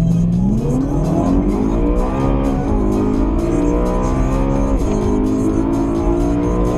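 BMW M3 E92's V8 engine accelerating hard under full throttle, the revs climbing and then dropping at two upshifts, about two and a half and five seconds in, before holding steadier.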